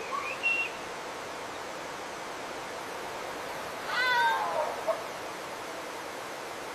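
Short high chirps at the start, then an animal call about four seconds in that slides down in pitch, like a meow, over a steady background hiss.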